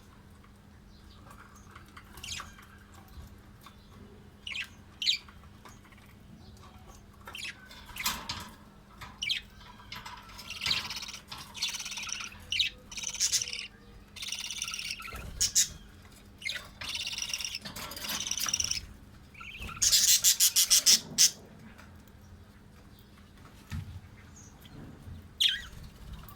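Small pet parrots chirping and squawking in short, scattered calls, busiest in the middle, with a quick run of harsh rasping pulses about twenty seconds in. A steady low hum runs underneath.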